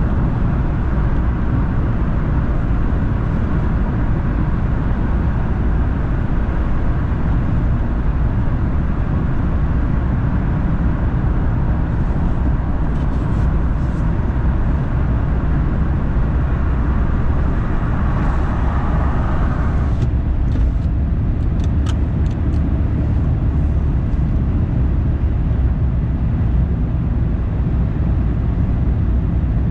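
Steady road noise from a car driving, a deep rumble with tyre hiss over it. The hiss eases about two-thirds of the way through, with a few faint ticks around then.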